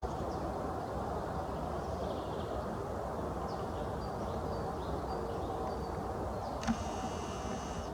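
Outdoor countryside ambience: a steady rushing background with faint small-bird chirps scattered through it. Near the end a sudden click is followed by a harsh buzzing sound lasting about a second.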